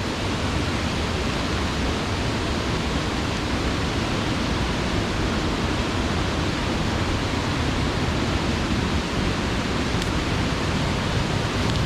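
Large waterfall pouring down close by: a steady, dense rush of falling water.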